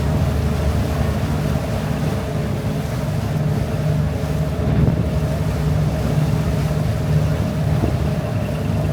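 A river cruise boat's engine running, a steady low drone with no change in speed.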